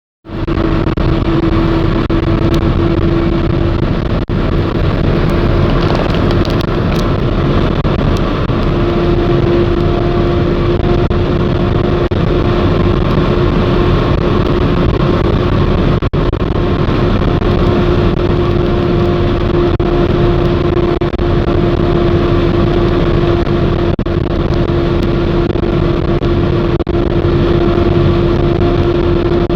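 Car travelling at a steady speed on a highway: continuous engine and tyre-on-road noise, with a steady hum held throughout.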